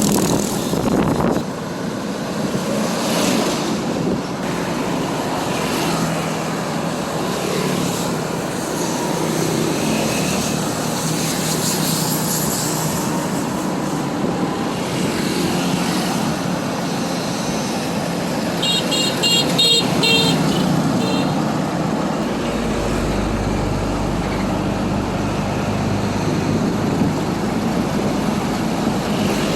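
Steady road and wind noise of a motorbike riding through traffic. About two-thirds of the way through, a vehicle horn gives a quick series of short toots, and a deeper engine rumble joins near the end.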